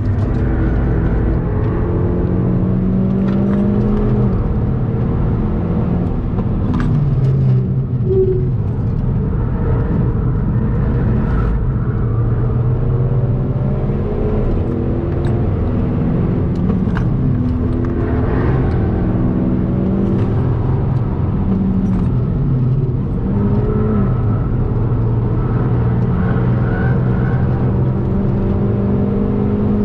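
Hyundai i30 N's turbocharged 2.0-litre four-cylinder engine heard from inside the cabin at full track pace, the revs climbing and dropping again and again through the gears, over steady road and tyre noise.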